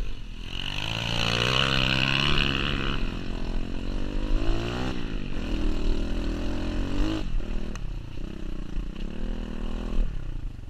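Pit bike's small single-cylinder engine revving as it is ridden: the pitch climbs over the first couple of seconds, falls near the middle, climbs again, and changes abruptly about seven seconds in before settling lower.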